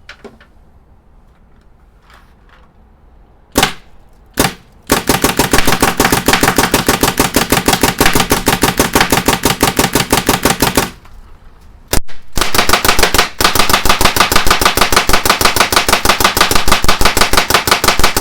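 Planet Eclipse Gtek paintball marker on a GMek mechanical frame being test-fired: two single shots, then a rapid, even string of shots for about six seconds, a short break with one more shot, and another rapid string. The marker cycles on every pull, the sign that the freshly installed frame is working.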